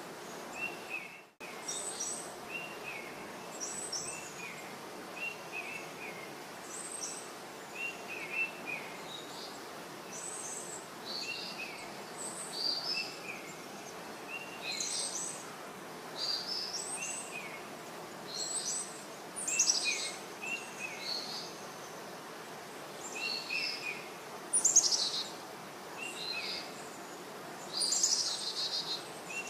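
Birds chirping: short call phrases repeating every second or so, some high and some lower, over a steady hiss. The sound drops out for a moment about a second in.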